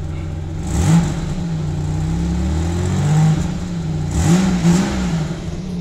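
1992 Oldsmobile 98 Regency's 3.8-litre V6 running and revved twice, about a second in and again about four seconds in, the pitch rising and falling back each time. It has a bit of an exhaust leak, which the owner says doesn't sound that bad.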